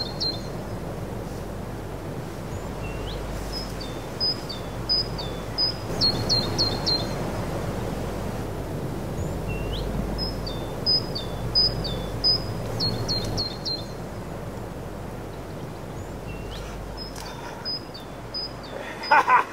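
A songbird singing short phrases of quick, high, chirpy notes, repeated about every six or seven seconds, over a steady rumble of outdoor background noise.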